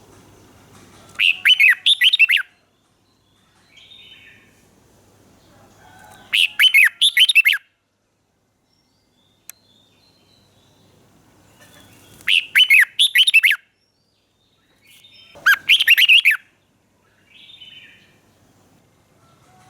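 Red-whiskered bulbul singing: four loud, quick phrases of bright warbled notes, each about a second long and spaced a few seconds apart, with softer short calls between them.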